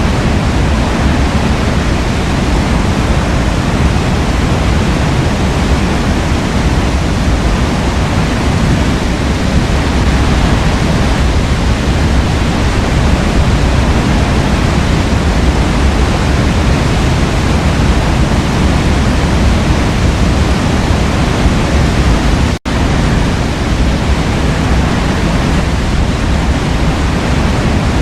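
Forest waterfall rushing steadily, a dense unbroken roar of falling water heaviest in the low end. The sound drops out for a split second about three quarters of the way through, then resumes unchanged.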